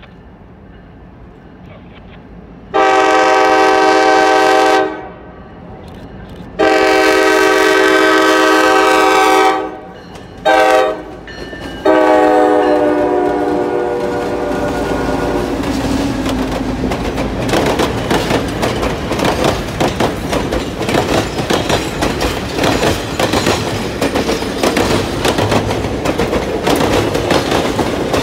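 Diesel locomotive horn sounding the grade-crossing signal: two long blasts, a short one, then a longer one. The excursion train follows, its EMD diesels including SD50 5018 rumbling past, then the passenger cars rolling by with a steady clickety-clack of wheels over rail joints.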